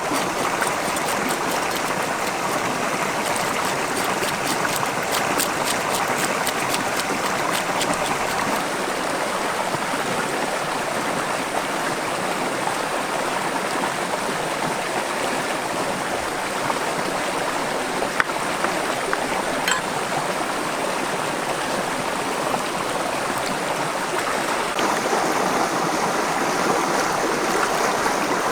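Steady rushing noise of running water, like a stream, with a fast fine crackle high up over the first several seconds and a single sharp click a little after halfway.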